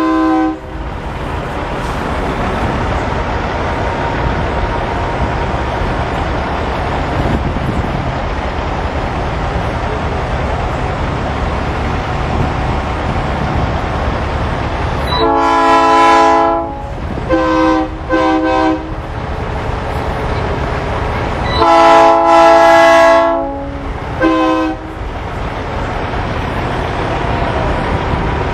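Big-rig air horns blowing over a steady background rumble: a short blast at the start, a long blast about halfway through, two quick toots, then another long blast and a short toot.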